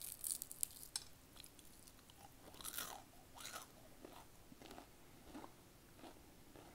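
A bite into crispy Popeyes fried chicken breading, a cluster of crunchy crackles in the first second, followed by chewing.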